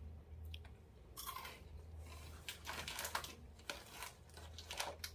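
Chewing and crunching of crispy fried corn kernels, a hard toasted corn snack, in irregular crunches.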